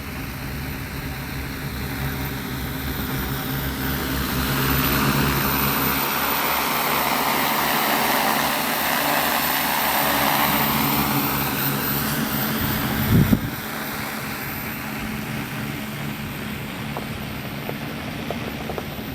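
15-litre agricultural spraying drone flying, its rotors giving a steady buzzing drone that grows louder as it comes closer and fades as it moves away. A brief low thump about two-thirds of the way through.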